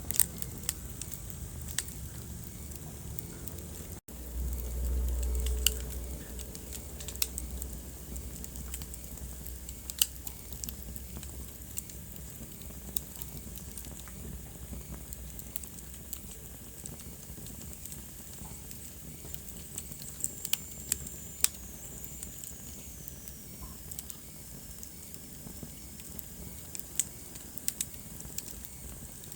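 Wood fire crackling in a fireplace: scattered sharp pops and snaps over a steady hiss. About four seconds in, a low rumble lasts about two seconds and is the loudest part, and past the middle a faint high whistle falls in pitch.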